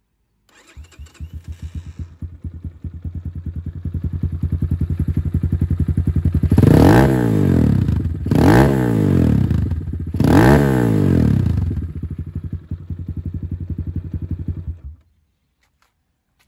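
Leramotors Killer 250 pit bike's air-cooled single-cylinder four-stroke engine starting, settling into a steady idle, blipped three times with quick rises and falls in revs, then idling again until it cuts off suddenly near the end.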